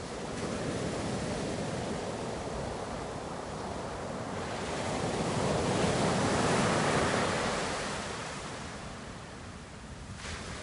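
Ocean surf: a wave swells to its loudest a little past the middle as it breaks and washes in, then ebbs away.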